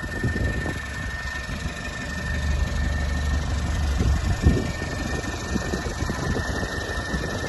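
Nissan Cabstar refrigerated truck running at idle: a steady low engine rumble with a constant high-pitched whine over it. There is a single knock about halfway through.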